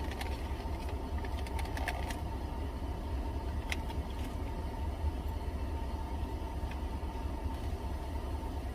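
Steady low rumble of a running motor with a faint steady hum above it, and a few soft clicks in the first two seconds and once more about four seconds in.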